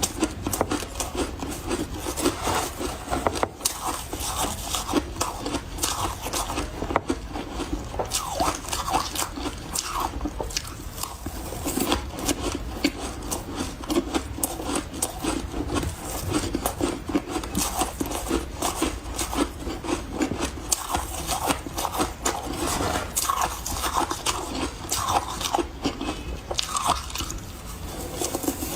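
Close-miked crunching and chewing of refrozen powdery freezer ice, a dense run of soft crackles and squeaky crunches as each mouthful is bitten and chewed.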